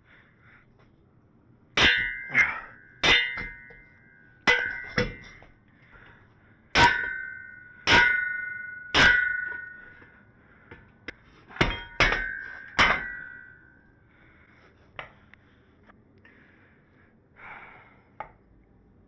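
About a dozen hammer blows on a buckled square steel shop-crane leg tube fitted over a square mandrel, each strike ringing with a metallic tone, in uneven groups. They stop about two-thirds of the way through, leaving a few faint knocks.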